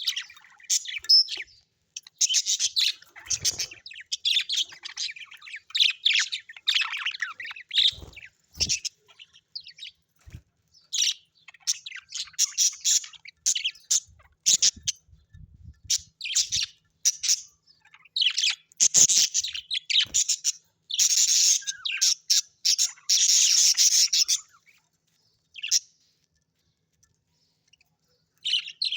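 Birds chirping and chattering in rapid runs of high-pitched calls, separated by short pauses, thinning out and falling almost silent near the end.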